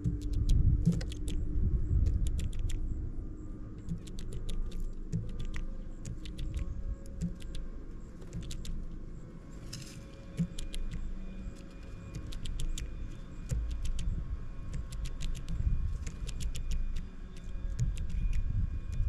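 Small birds busy at a feeder: many quick, sharp high clicks and taps scattered through, over a steady low rumble.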